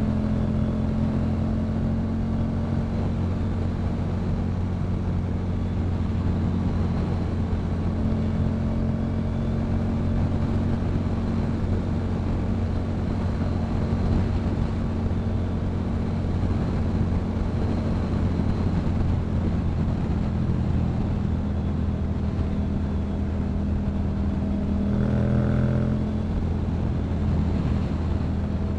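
Yamaha MT-07's 689 cc parallel-twin engine running through a Yoshimura exhaust at a steady cruising speed, its note holding even pitch, with a brief change about 25 seconds in.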